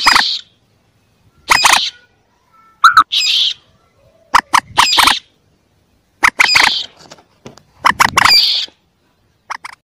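Common moorhen chick calls: short calls, each a quick cluster of notes, repeated about every one and a half seconds with silence between them.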